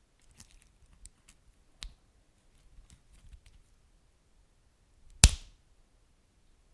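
Wood fire crackling: scattered small pops and ticks, with one loud sharp snap about five seconds in.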